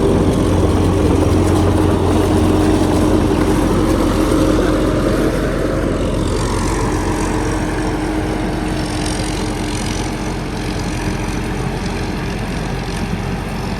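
A motor engine running steadily. About five seconds in its low note eases off and a higher, wavering whine comes in.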